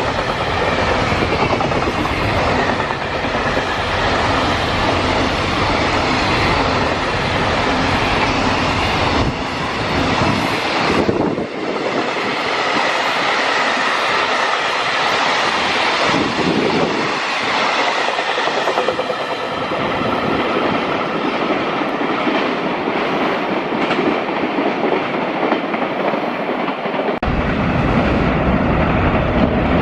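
Freight train running past, its wagons' wheels clattering over the rail joints with a thin, steady metallic ringing; the deep rumble eases off partway through and comes back near the end.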